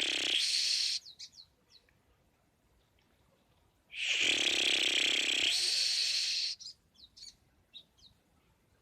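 Lovebird singing its long, rapid chattering trill (ngekek): one burst ends about a second in, a second lasts about two and a half seconds from about four seconds in. Short high chirps follow each burst.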